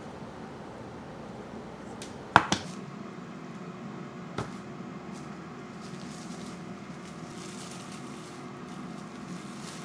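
Two sharp knocks in quick succession a couple of seconds in, and a softer knock about two seconds later, over a steady hum: hard kitchenware being handled.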